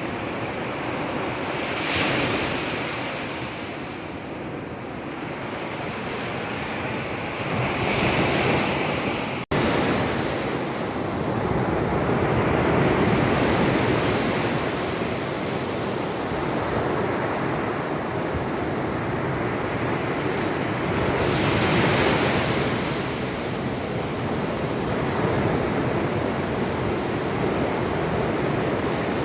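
Pacific surf breaking on a beach, waves rushing in and swelling every several seconds, with wind on the microphone. There is a brief break in the sound about nine seconds in.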